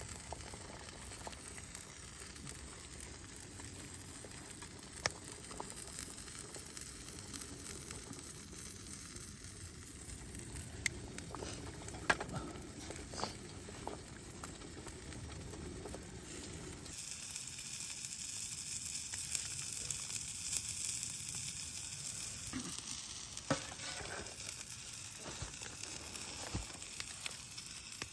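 Food frying in a pan, a steady sizzle with scattered sharp pops; the sizzle grows louder and brighter about seventeen seconds in.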